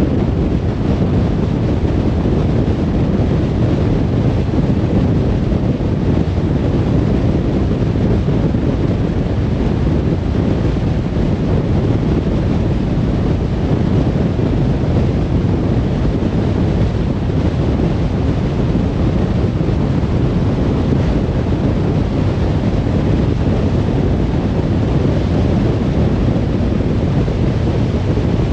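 Steady road and wind noise of a car driving along, a continuous low rumble with no changes.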